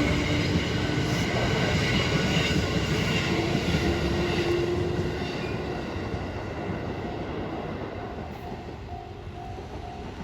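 221 series electric train running, its motor whine stepping up in pitch while the rumble of wheels and motors gradually fades as it moves away. A short repeating tone sounds near the end.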